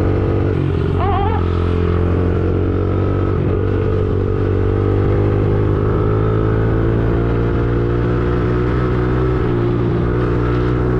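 Small 50cc dirtbike engine running steadily while being ridden, its pitch rising and falling gently with the throttle.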